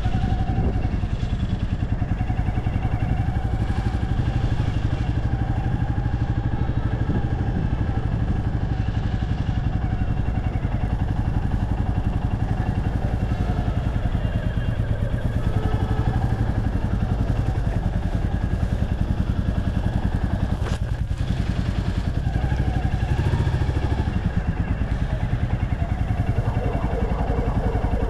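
Motorcycle engine running steadily under way, its firing pulses heard continuously from on the bike.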